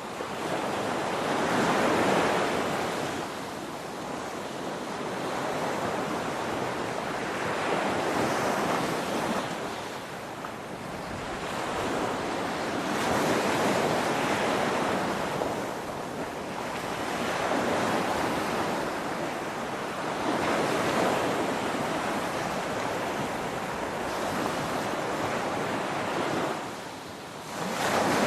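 Ocean waves breaking on a shore, a continuous rush of surf that swells and recedes about every four to six seconds, with a brief lull near the end before the next wave breaks.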